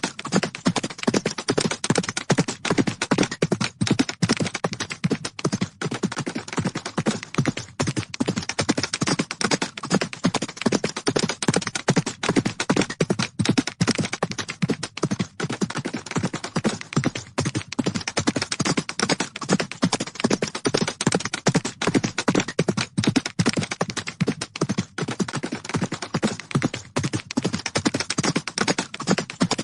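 Horses galloping: a rapid, continuous drumming of hoofbeats on the ground.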